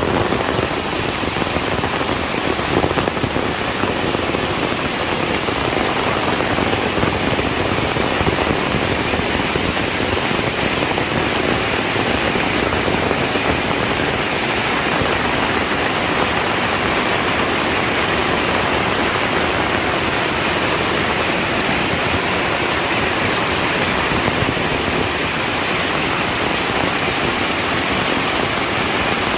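Heavy rain falling steadily, a constant even hiss of rain on a surface.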